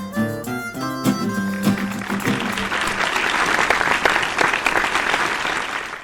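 Music with pitched notes over a bass line, fading out about two to three seconds in as audience applause swells up and carries on.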